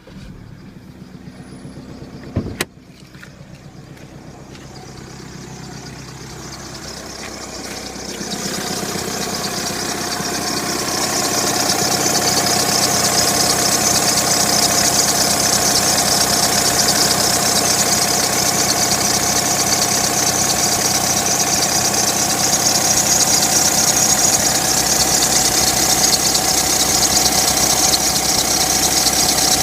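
Audi A4 engine running, growing louder over several seconds and then holding steady with a strong hiss and a steady whine: the strange engine noise the owner is asking about. A single sharp click about two and a half seconds in.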